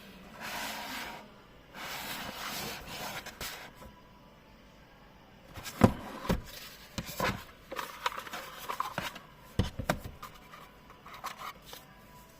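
Hands handling sunglasses packaging: two stretches of rubbing and scraping, then a run of sharp clicks and knocks as the box and case are handled and opened.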